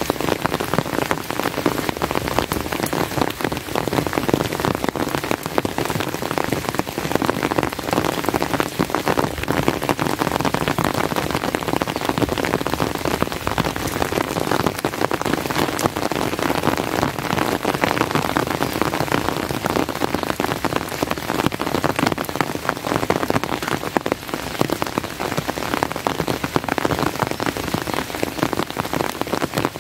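Steady rain falling, with a dense stream of individual raindrop hits close to the microphone.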